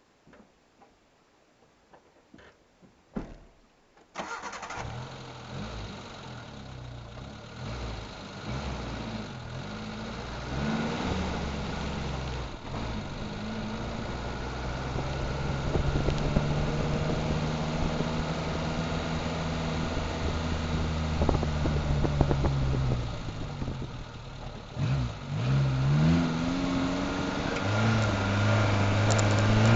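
A few faint clicks, then a Suzuki Samurai's engine starts about four seconds in and runs. Its pitch rises and falls with revving and gear changes while it drives, and it climbs steeply near the end as the engine works up a grassy slope.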